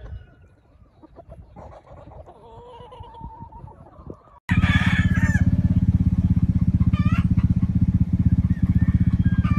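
Roosters crowing and chickens clucking. About halfway through, a sudden cut brings in a loud, steady low engine hum, with more rooster calls over it.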